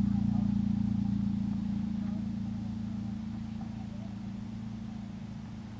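Motorcycle engine running at a steady pitch, slowly getting quieter.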